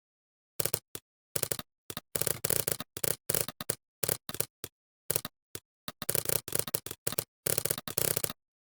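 Computer keyboard typing: quick runs of key clicks in bursts, with short pauses of dead silence between them.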